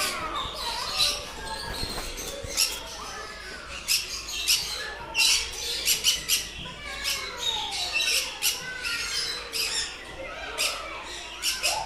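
Many birds in an aviary squawking, a rapid run of short, sharp, shrill calls.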